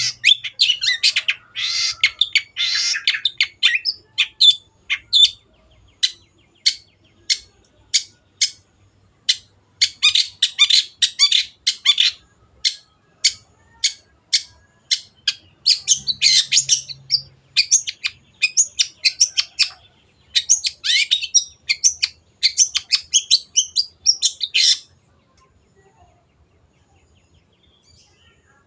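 Long-tailed shrike (cendet) singing loudly: fast, harsh chattering runs broken by strings of sharp single notes about one or two a second. It stops about 25 seconds in.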